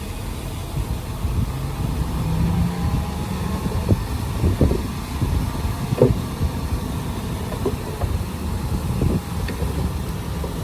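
Diesel engine of heavy earthmoving machinery, likely a bulldozer, running steadily, with several short knocks and clanks scattered through it.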